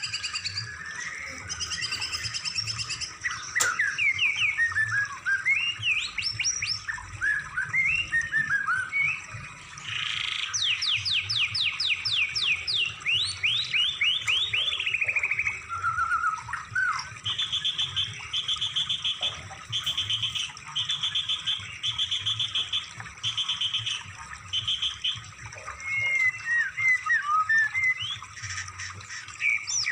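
Recorded songbird song used as training material: varied fast chirps, trills and whistled sliding phrases. In the middle a run of about eight evenly spaced short notes repeats, all over a low steady hum.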